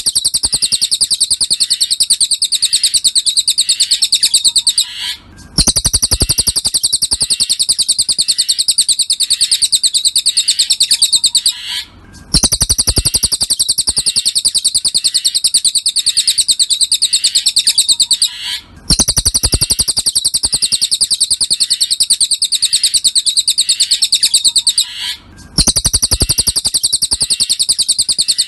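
Looped recording of a cililin's song: a fast, high-pitched trill of rapid notes held for about six seconds, repeated after brief breaks every six to seven seconds.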